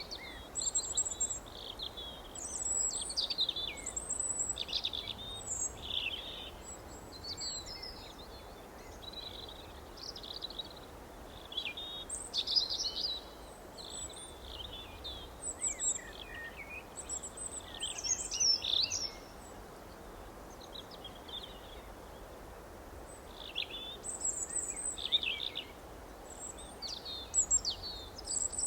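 Several songbirds chirping and singing in short, overlapping high-pitched phrases, with a lull of a few seconds around the middle, over a steady faint background hiss.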